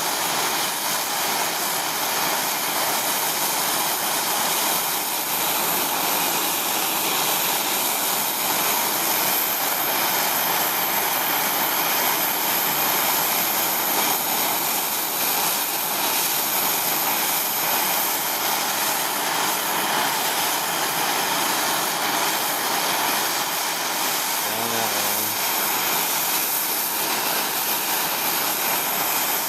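Hand-held MAPP gas torch burning with a steady hiss, heating an aluminium oil pan up to brazing temperature.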